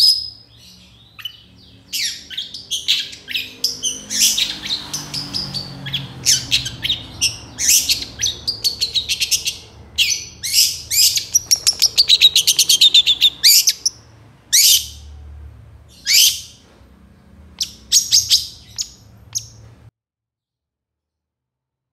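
Long-tailed shrike (cendet) singing hard: fast rapid-fire runs of sharp, high chattering notes, thinning to scattered single calls and then breaking off near the end.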